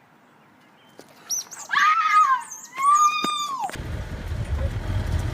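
An animal's high crying calls: a few short squeaks, then two long wavering cries that stop abruptly, followed by steady wind rumble on the microphone.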